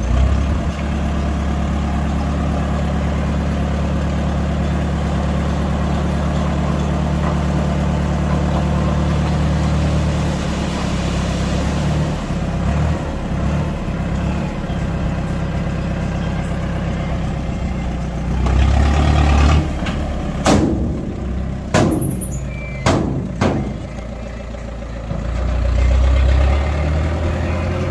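Heavy diesel engine of earth-moving machinery running steadily, then unevenly as its load changes. A few sharp metallic knocks come about two-thirds of the way through.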